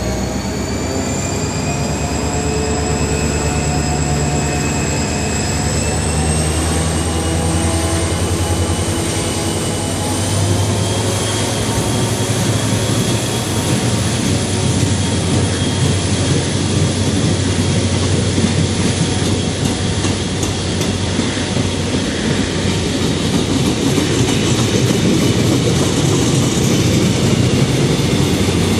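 Saemaeul passenger train pulling out past the platform: a whine that rises in pitch over the first ten seconds and then holds steady, over the rumble and clatter of the coaches' wheels on the rails, growing a little louder near the end.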